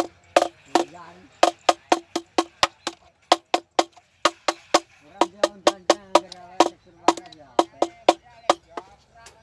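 A hollow knocker struck over and over to scare munias off the crop: sharp knocks with a short pitched ring, about four to five a second, with brief pauses about a second and four seconds in.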